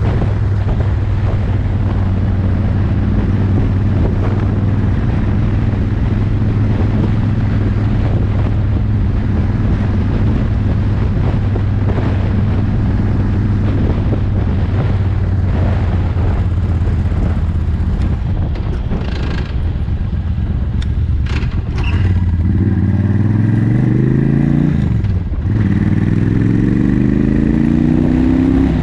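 Motorcycle engine running at a steady cruise, then from about 22 seconds in accelerating: the pitch rises, drops sharply at a gear change a few seconds later, and rises again.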